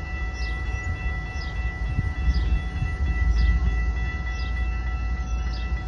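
Freight train passing with a steady deep rumble from the locomotives and cars. Several steady high ringing tones sound over it, with a faint short chirp about once a second.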